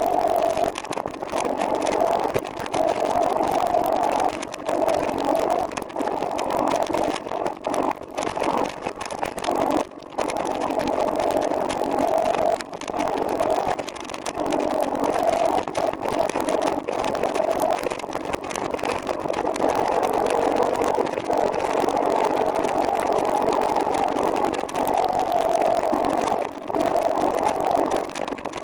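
Steady rushing noise of riding on a moving trike, wind and rolling tyres on the microphone, swelling and dipping every second or two with a few brief drops.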